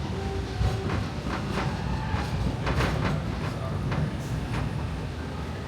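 Narrow-gauge steam train rolling along the track, heard from aboard a passenger car: a steady low rumble with irregular clacks and knocks from the wheels and cars, thickest in the middle.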